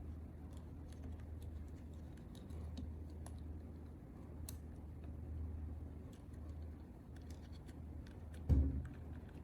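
Light clicks and scratches of small parts being handled at a workbench, over a low steady hum, with one dull thump near the end.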